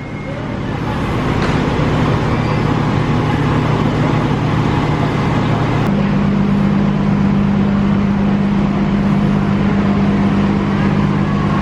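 Bus engine running steadily, its low drone stepping up to a higher pitch about six seconds in.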